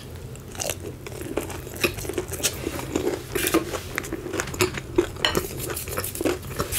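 Close-miked chewing of a crispy fried chicken tender: a busy run of small crunches and mouth clicks.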